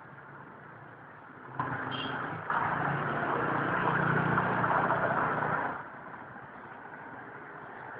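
A motor vehicle's engine runs close by, getting louder about one and a half seconds in and fading again near six seconds, over steady street noise.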